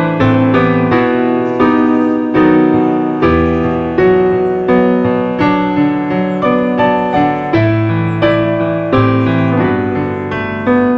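Background piano music: a gentle piano piece with evenly paced chords and melody notes, each note struck and fading.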